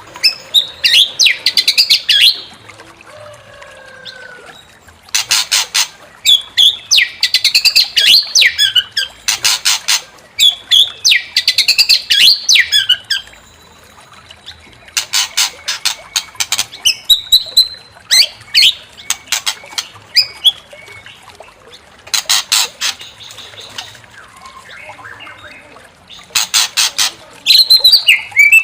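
White-rumped shama (murai batu) singing loud, varied whistled phrases. Bursts of fast rattling chatter break in every four to six seconds, with short lulls between songs.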